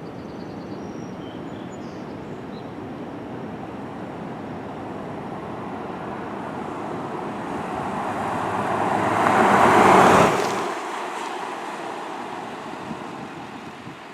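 A road vehicle passing close by, its tyre and road noise swelling to a peak about ten seconds in, then cutting off sharply at the low end and fading away. No siren is heard.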